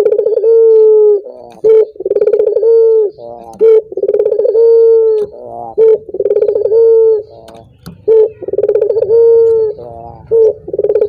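Male Barbary dove (burung puter) cooing over and over: long held coos broken by quick rolling notes, the phrase repeating about every two seconds.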